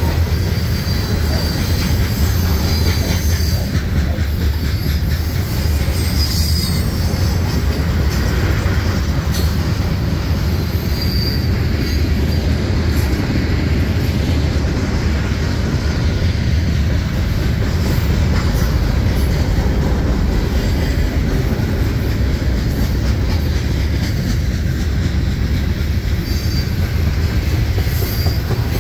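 Freight train cars, covered hoppers and then tank cars, rolling past close by: a steady, heavy rumble of steel wheels on rail, with short wheel squeals now and then.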